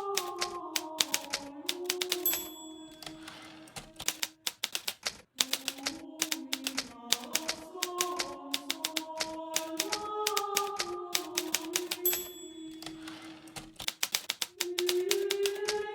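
Hermes Baby manual typewriter typing in quick runs of key strikes. Twice, about ten seconds apart, a short ring is followed by a rasping pause in the typing, fitting the end-of-line bell and carriage return. A slow background melody plays underneath.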